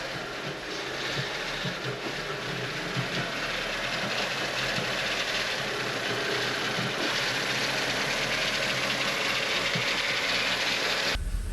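The freshly rebuilt 2007 Audi A4 2.0 FSI four-cylinder being cranked on its starter motor without firing: a steady mechanical whirring clatter that cuts off sharply near the end. The owner suspects it is not getting fuel.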